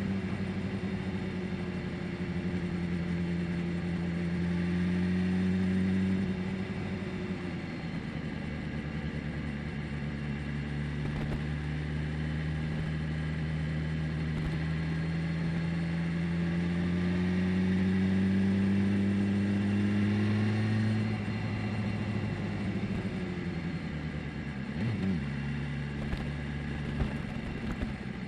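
BMW S1000R inline-four engine under way, its pitch climbing slowly as the bike gathers speed, then dropping as the throttle closes, with a short sharp blip near the end.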